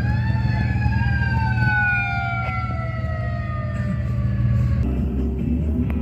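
Fire truck siren that has just wound up and then falls slowly and steadily in pitch, fading out about five seconds in, over the steady low drone of the truck's engine.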